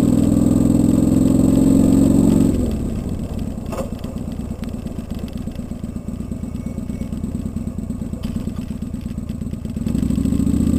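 Kawasaki Vulcan 800's V-twin engine running under throttle, then dropping about two and a half seconds in to a quieter, pulsing off-throttle beat as the motorcycle rolls along. Near the end it is opened up and gets louder again.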